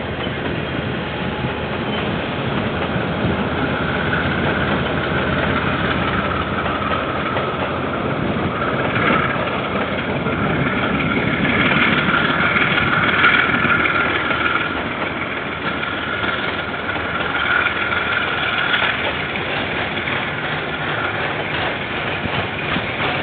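A KiwiRail train running past, a continuous heavy rumble with high-pitched tones coming and going through the middle, heard through a security camera's microphone with the top end cut off.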